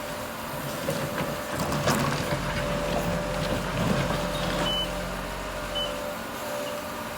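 Heavy construction machinery running with a low engine drone that swells and then eases off. Scattered knocks and clanks come in the first few seconds, and two short high beeps sound near the end.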